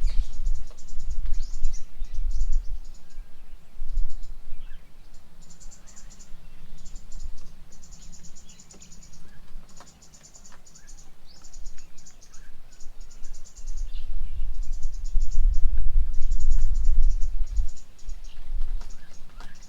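High-pitched insect trills in short pulsing bouts, one after another, with a few faint bird chirps. A low rumble swells near the start and again in the last third; it is the loudest sound.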